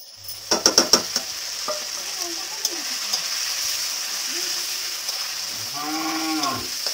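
Sliced onions frying in hot oil in an aluminium kadai, a steady sizzle, while a metal spatula stirs and knocks against the pan, sharpest about half a second to a second in. A short rising-and-falling call sounds near the end.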